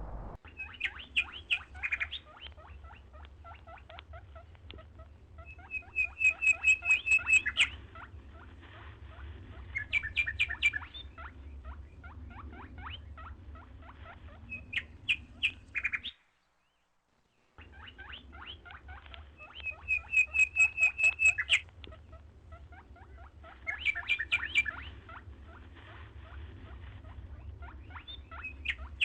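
Songbirds singing, with phrases of rapid trilled notes that come again every few seconds, over a steady low rumble. The sound cuts out completely for about a second and a half just past the middle, then resumes.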